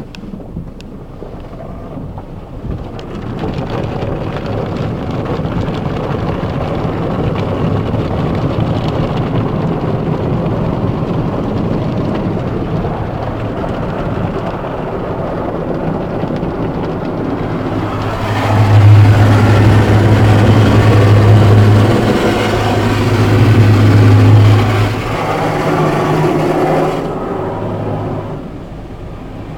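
Car wash water spraying as a steady rushing noise that builds up over the first few seconds. In the second half it grows louder for about nine seconds, with a strong, steady low machine hum from the wash equipment.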